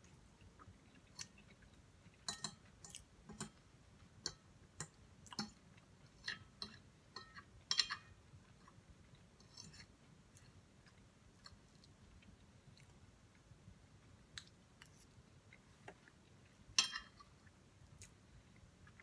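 Close-miked chewing of chicken and noodle stir fry: irregular wet mouth clicks and smacks, thick in the first half, then sparse, with one louder click near the end.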